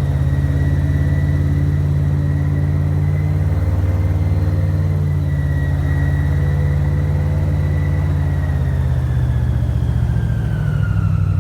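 Airboat engine and propeller running steadily at speed, loud and droning. It starts to wind down near the end, its pitch falling as the boat slows.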